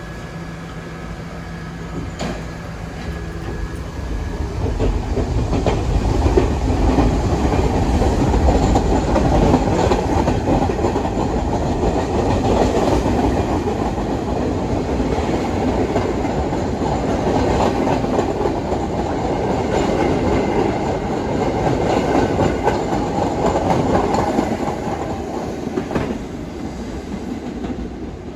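New York City subway train running on the tracks, with the wheels clicking over rail joints. The sound builds over the first five seconds or so, holds steady, and eases off near the end.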